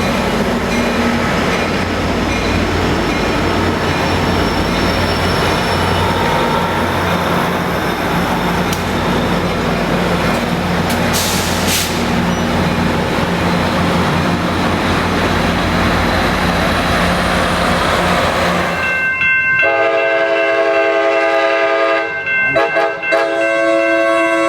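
Amtrak Pacific Surfliner diesel locomotive running by loudly, with engine and rail noise. About nineteen seconds in, a multi-chime K5LA horn sounds a long, steady chord that wavers briefly a few seconds later.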